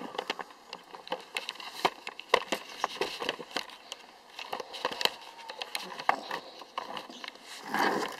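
Irregular small clicks, taps and crackles of handling, with a short rustle near the end; no engine is running.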